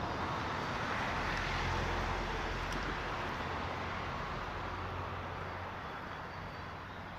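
A vehicle passing, its low rumble and noise swelling about two seconds in, then slowly fading away.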